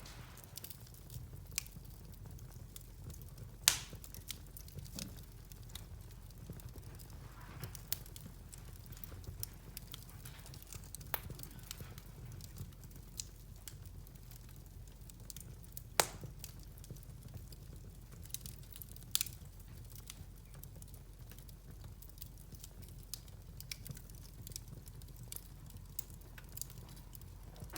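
Wood fire crackling in a fireplace: scattered sharp pops and ticks, with three louder pops about 4, 16 and 19 seconds in, over a low steady hum.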